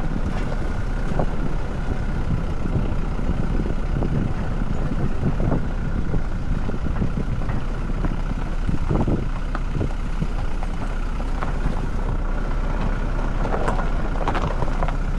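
Steady engine and road rumble heard from inside a moving car, with a faint constant whine and occasional small knocks.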